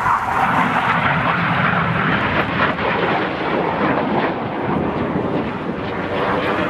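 BAE Hawk T1 jets, each with a single Adour turbofan, flying a low display pass. The jet noise is loud and steady, swelling up just as it starts.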